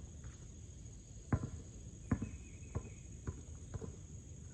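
Basketball bouncing on an outdoor court as a player dribbles: about five sharp bounces, starting about a second in and coming roughly every half second to second, over a steady high-pitched hum.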